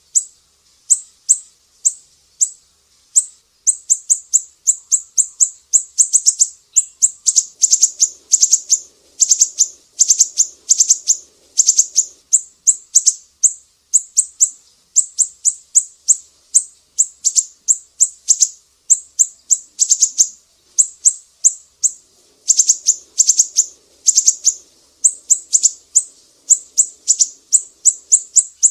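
Siri-siri songbird singing a fast run of short, sharp, high notes, two to three a second, kept up with only brief gaps.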